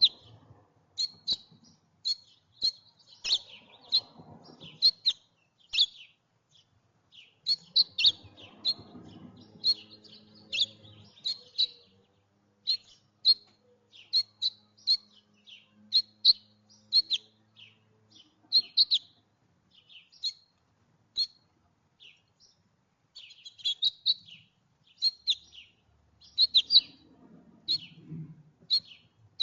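Small songbirds chirping at a backyard feeder: a long run of short, sharp chirps, several a second, with brief pauses.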